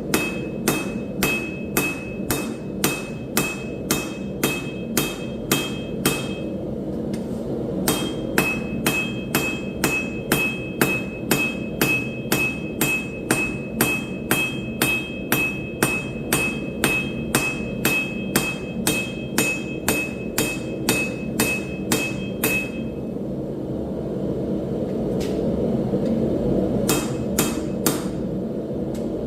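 Steady hand-hammer blows on hot steel at an anvil, about two strikes a second, each with a bright metallic ring. The hammering pauses briefly about six seconds in, runs on, then stops for a few seconds near the end before a few more blows, over a steady low rumble.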